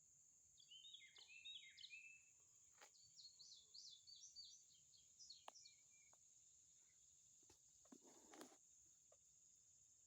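Faint songbird singing in quick runs of high chirps over the first half or so, against a steady high hiss. A few light clicks and a short rustle about eight seconds in.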